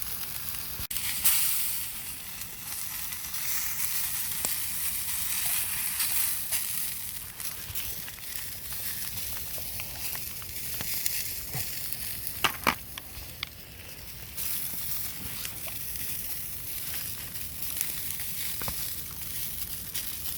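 Vegan burgers sizzling in oil in a frying pan, a steady hiss with a few sharp clicks and knocks, the loudest about a second in and about two-thirds through.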